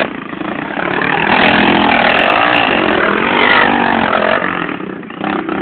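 Pit bike engine revving up and down as the bike is ridden, the pitch rising and falling several times and dropping away near the end.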